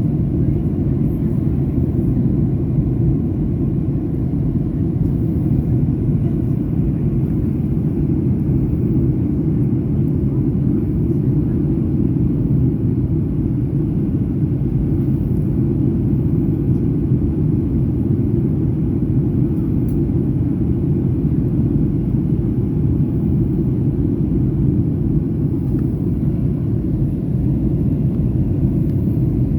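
Cabin noise of a Boeing 737-800 in descent: a steady low rumble of engines and rushing air, unchanging throughout.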